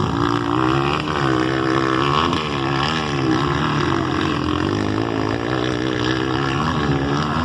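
Motocross bike engines running on the track, their pitch rising and falling repeatedly as the riders work the throttle, over a steady lower drone.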